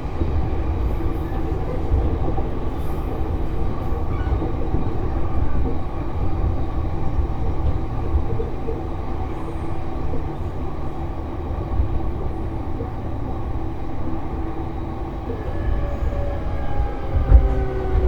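JR East E233-series electric train running, heard from inside the car: wheels rumbling on the rails under a steady whine from the inverter-driven traction motors. Near the end the motor tones shift in pitch, and two loud knocks come from the track.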